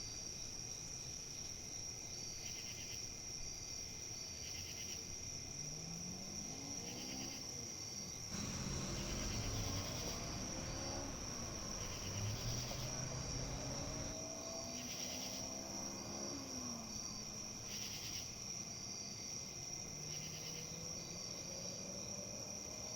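Insects trilling in a steady, high, unbroken tone, with a softer pulsing call repeating every second or two. Faint low rising tones come and go in the middle.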